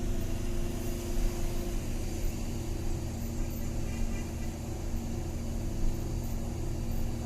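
Motor vehicle engine running at a steady pace while driving, a low even hum with road noise.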